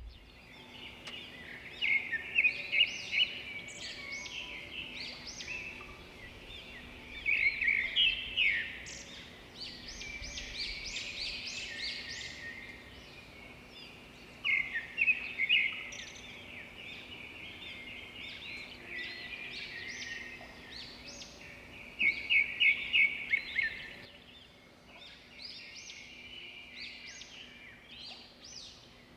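Birds chirping in repeated bursts of quick, high notes, with a faint steady hum underneath.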